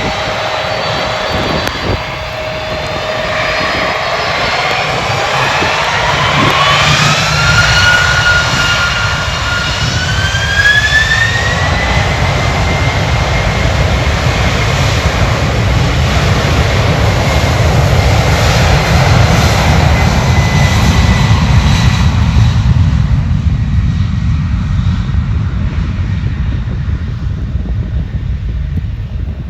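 Jet airliner's turbofan engines spooling up for takeoff: a whine rises in two steps, holds steady over a deep rumble, then fades near the end.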